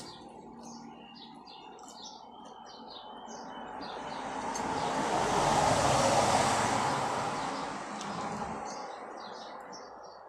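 Small birds chirping in short repeated notes while a vehicle passes, its noise swelling to a peak about six seconds in and fading away; the chirping carries on as it goes.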